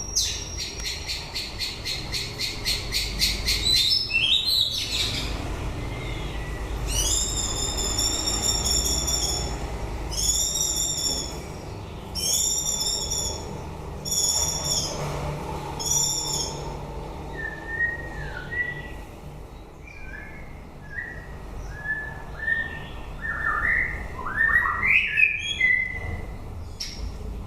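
White-rumped shama singing in full song late in the breeding season. It opens with a fast run of high repeated notes, then gives a whistled phrase about five times over, then drops to softer, lower sliding notes.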